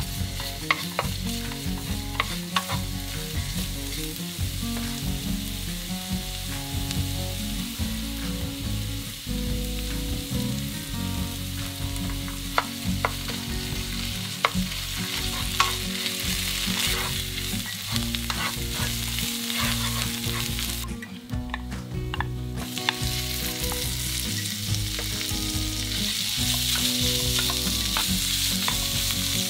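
Minced garlic and ginger sizzling in oil in a nonstick frying pan, stirred and scraped with a wooden spatula, with sharp ticks from the spatula through the sizzle. The sizzle drops away briefly about two-thirds of the way in and is louder in the last few seconds.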